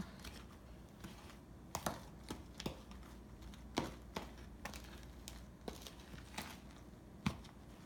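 A spoon clicking and scraping in a bowl while stirring crushed Butterfinger pieces into whipped cream, with about ten irregular sharp clicks.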